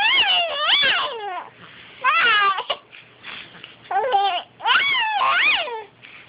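Cat meowing loudly and repeatedly, about six drawn-out calls in quick pairs that rise and fall in pitch, a complaining yowl.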